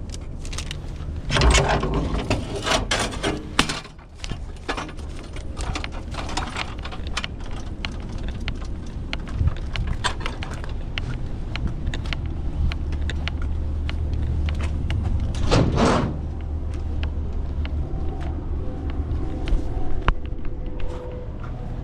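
Truck engine running with a steady low rumble, over scattered clicks and rattles and a couple of louder rustling, clattering spells: one about a second in and a shorter one a few seconds before the end.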